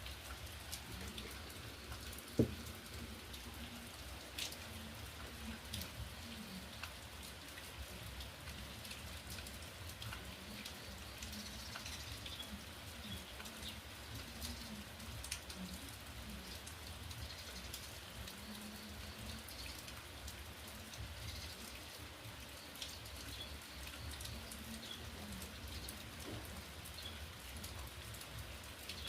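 Steady rain falling, with many individual drops tapping on a surface and one sharper, louder tap about two seconds in.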